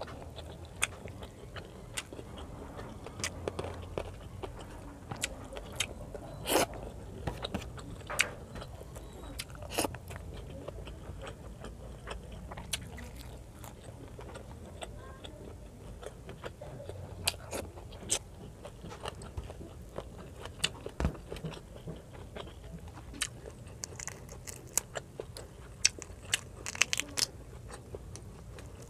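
Close-miked chewing of a hand-fed mouthful of fried fish and rice, with irregular crisp clicks and crunches throughout and a quicker run of clicks near the end.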